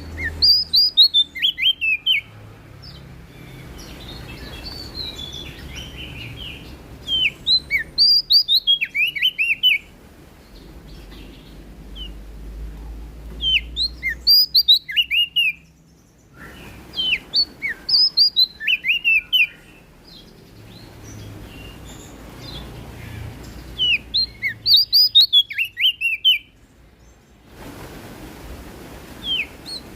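Prenjak daun (a small Indonesian leaf warbler, also called cikrak daun) singing loud bouts of rapid, high, downslurred notes. Each bout lasts about two seconds, and about five come in a row, some five to seven seconds apart, with a faint background noise between them.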